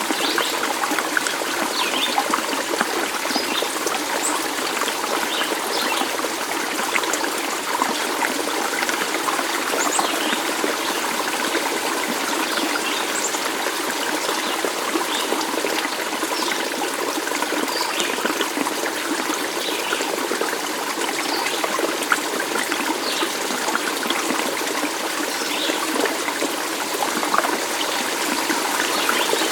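Stream running steadily, a continuous trickling of water with small splashes and gurgles throughout.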